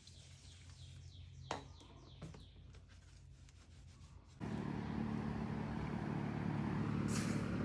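A faint low hum with a single click, then, about four and a half seconds in, a louder motor sound starts abruptly and runs steadily.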